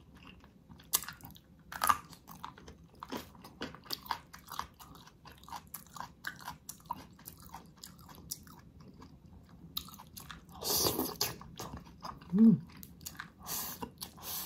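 Close-miked chewing and wet mouth sounds of a person eating gelatinous, sauce-covered ox feet: many short smacks and squelches. A longer rush of noise comes about eleven seconds in, and a brief hum near the end.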